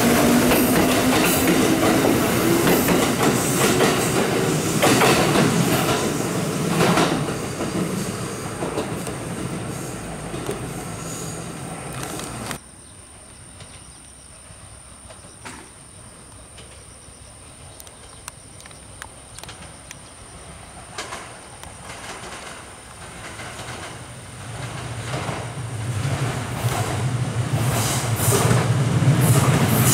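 Kintetsu electric train pulling away and fading, with a pitched whine in the first few seconds and rail-joint clicks. The sound cuts off abruptly about twelve seconds in; after a quiet stretch, a second Kintetsu train approaches, its rumble and wheel clatter growing steadily louder until it passes close by near the end.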